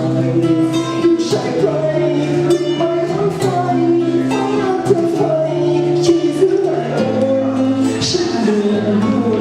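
Live acoustic song played on a strummed guitar, its chords changing every second or so.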